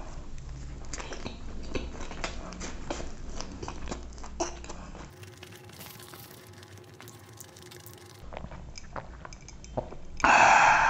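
Close-miked biting and chewing of food, with short crunchy clicks and wet mouth sounds. A sudden, much louder noise starts shortly before the end.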